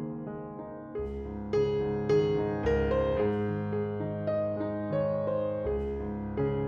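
Soft background piano music: gentle sustained chords and a slow melody, with new notes struck about once or twice a second.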